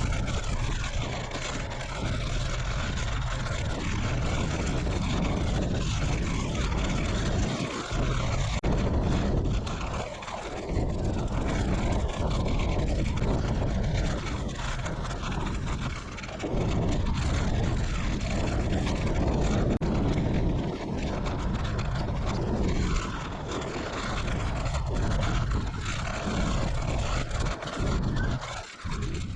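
Strong gusting wind buffeting the microphone of a moving bicycle: a loud, rough rumble that swells and dips unevenly.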